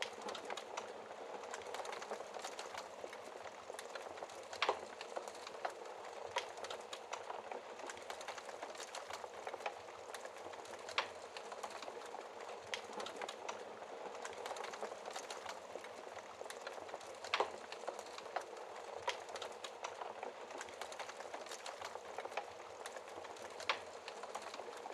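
Wood fire burning in a fireplace: a steady crackle of small snaps, with a few louder pops every several seconds.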